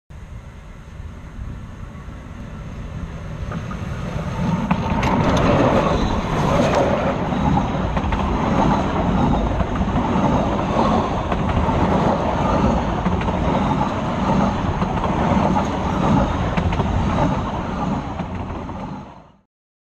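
Narrow-gauge train running: a steady rumble and rail noise that builds over the first few seconds, holds, and fades out quickly near the end.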